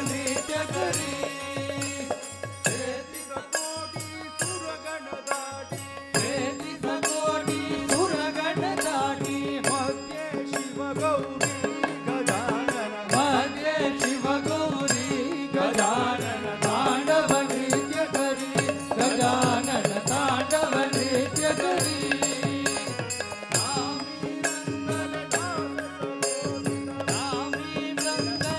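Indian devotional bhajan music without words: a steady drone held throughout under a wavering melody line, with rapid percussion strokes.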